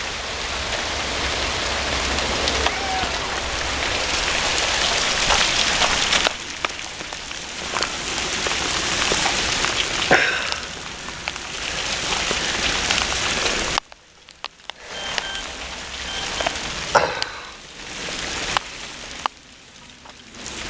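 Heavy hail pelting down: a dense hiss of countless small pellet impacts with sharper individual clicks. About fourteen seconds in the sound drops sharply, leaving quieter, uneven patches with scattered sharp hits.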